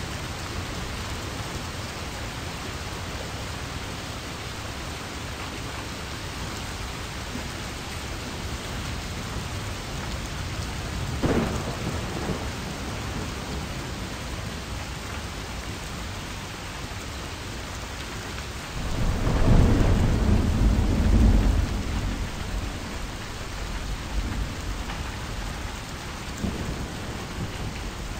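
Steady rain with thunder: a brief rumble about eleven seconds in, then a longer, louder low rumble that rolls on for about three seconds.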